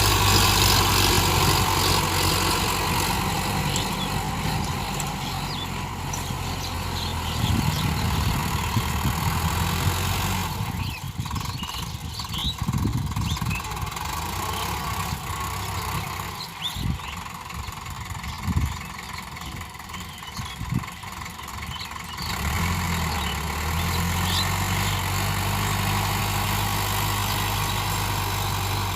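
Tractor engine running steadily. For about ten seconds in the middle its steady hum drops away and scattered knocks come through, then the steady engine sound returns about two-thirds of the way in.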